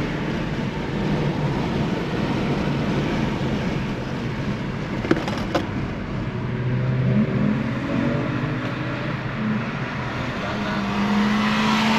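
Car engine running with road noise, the engine note climbing about six to seven seconds in. Two short clicks come a little past five seconds, and a rush of noise swells near the end.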